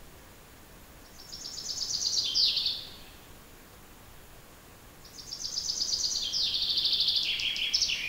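A songbird singing two trilled phrases, each a fast run of repeated notes stepping down in pitch; the first comes about a second in, and the second, longer one starts about five seconds in.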